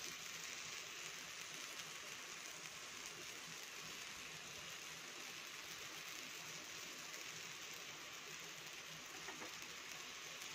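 Sweet wheat-flour dosa sizzling in oil on a hot black griddle (tawa), a steady faint crackle as its second side cooks.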